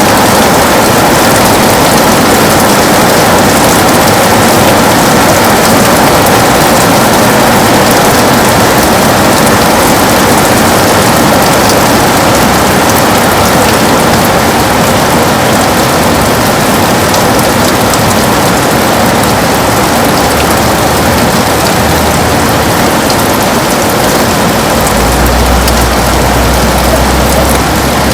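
Heavy rain beating steadily on a window, a dense even hiss with fine drop ticks throughout. A low rumble comes in under it near the end.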